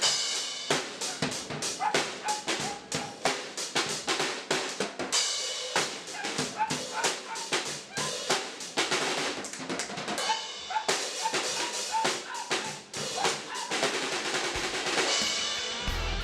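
Drum kit being played, an amateur beating out a busy rhythm of rapid snare, bass drum and cymbal hits.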